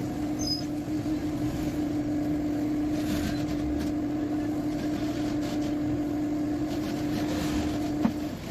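Steady machine hum holding one pitch over a low rumble, with a short click just before it stops near the end.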